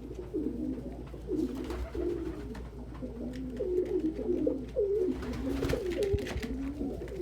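Several domestic pigeons cooing at once, their low coos overlapping throughout, the cooing of birds disputing nest boxes. A few sharp clicks about five and a half to six seconds in.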